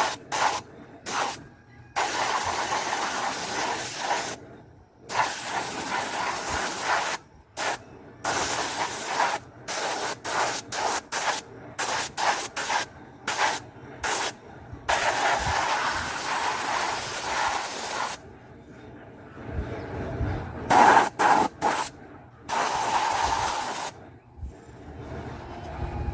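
Compressed air hissing in repeated bursts, some brief and some lasting two to three seconds, each starting and stopping sharply as a trigger is pressed and released.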